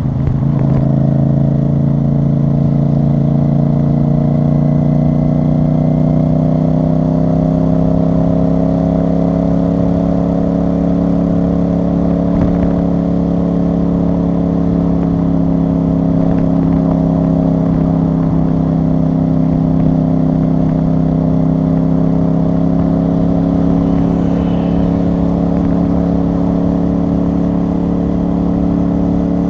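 CFMoto CL-C 450 parallel-twin motorcycle engine heard through its exhaust while riding at a steady cruise. The pitch rises gently over the first several seconds, then holds steady.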